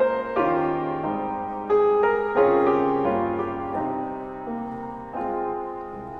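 Solo piano playing a slow, gentle passage of chords, each struck and left to ring and fade, the music growing quieter toward the end.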